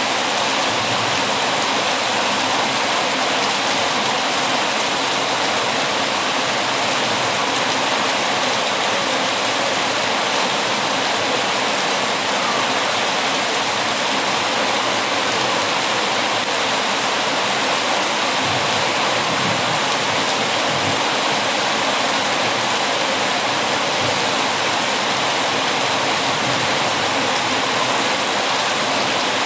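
Heavy rain falling steadily against windows: an even, unbroken hiss with no distinct drops or crackles standing out.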